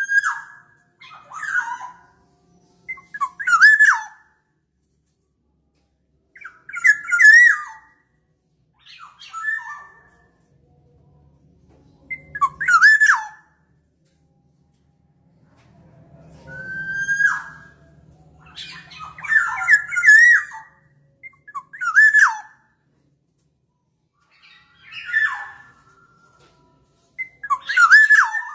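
Black-naped oriole (kepondang) calling: about a dozen short, loud, wavering calls around the same pitch, one every two to three seconds.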